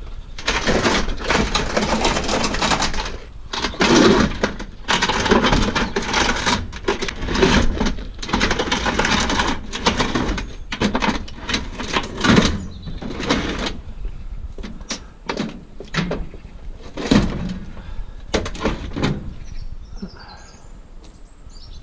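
Scrap metal being handled and worked by hand: repeated clanking, knocking and scraping of metal pieces. It is dense for about the first twelve seconds, then thins to scattered knocks.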